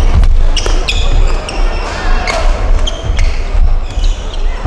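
Badminton rally: rackets striking the shuttlecock in sharp cracks and shoes squeaking short and high on the court floor, over a low steady rumble of the hall.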